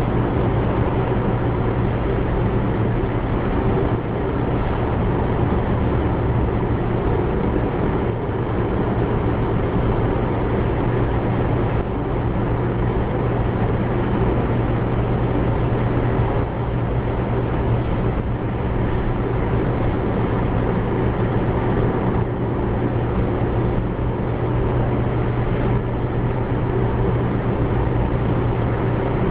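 Steady car noise: a low engine hum with road rumble, unchanging throughout.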